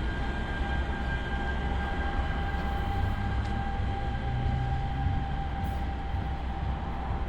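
NJ Transit commuter train at the station: a steady low rumble with a steady whine held at one pitch.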